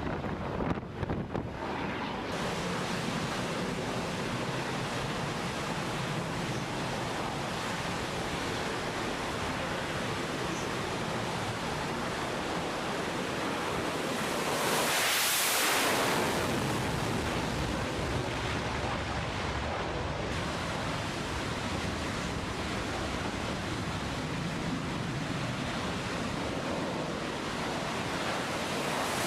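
Steady rushing wind noise buffeting the microphone, swelling louder for a moment about halfway through.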